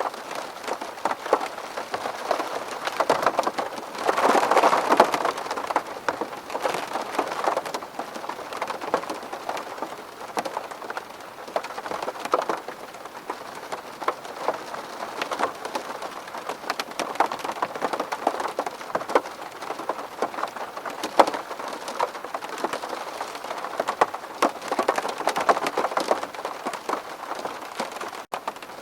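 Steady rain on window glass: a constant hiss of rain thick with sharp ticks of single drops striking, coming down harder for a couple of seconds about four seconds in and again near the end.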